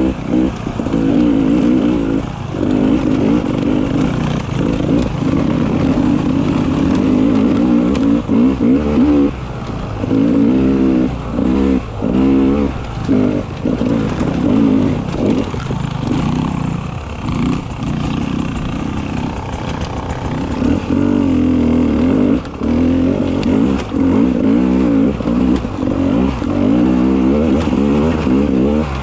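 Beta 300 RR two-stroke enduro motorcycle engine ridden on the trail, its revs rising and falling as the throttle is opened and chopped again and again, with the most frequent on-off changes in the middle.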